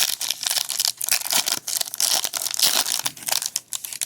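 Baseball card pack wrappers being torn open and crumpled by hand: a dense, continuous run of crinkling and tearing.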